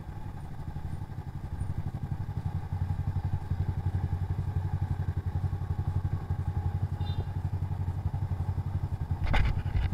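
Motorcycle engine running with an even low chugging pulse, and a short sharp clatter about nine seconds in.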